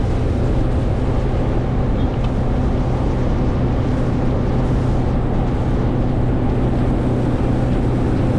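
Boat motor running at a steady throttle, an even hum under rushing wind and water noise.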